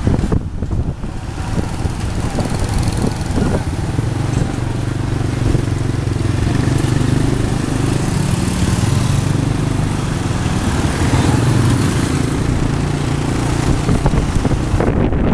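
Motorbike taxi's engine running steadily while under way, a constant hum under a rush of road noise.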